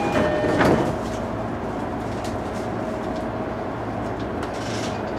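Running noise of an E233-series electric train heard from the driver's cab, with a louder burst a little under a second in and scattered short clicks later.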